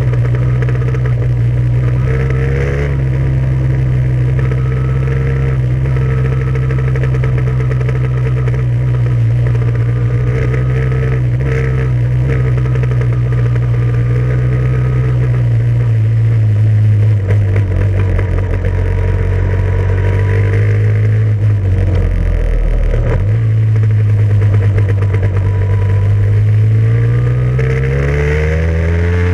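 Off-road vehicle engine running at fairly steady revs, dropping lower around the middle and climbing again near the end.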